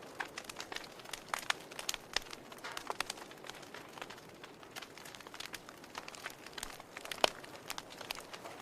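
Wood fire crackling in a fireplace: irregular sharp pops and snaps over a steady low hiss, with one louder pop about seven seconds in.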